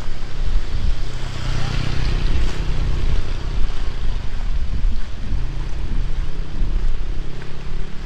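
Heavy rain hissing steadily, with gusting wind buffeting the microphone in a low, fluttering rumble.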